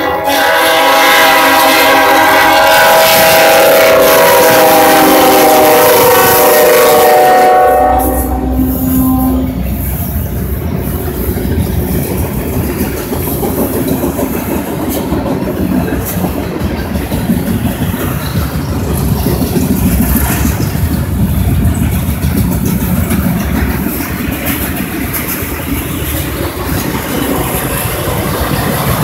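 A Norfolk Southern diesel locomotive's air horn sounds a loud multi-tone chord for the grade crossing as it passes, sliding a little lower in pitch and cutting off about eight seconds in. After that, the autorack freight cars rumble and clack steadily over the rails as the train rolls by.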